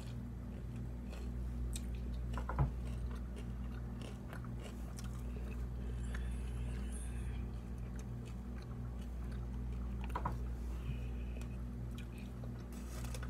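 A person chewing a sticky, half-set Rice Krispie treat, with scattered faint wet mouth clicks and one sharper click about two and a half seconds in. A steady low hum runs underneath.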